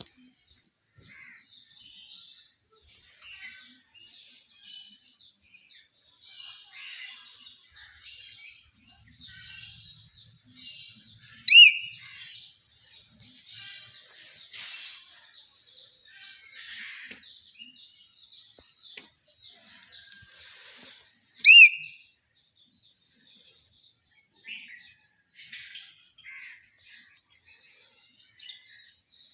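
Birds chirping and twittering throughout, and twice a loud, short, clear whistled call, about ten seconds apart, typical of a hill myna.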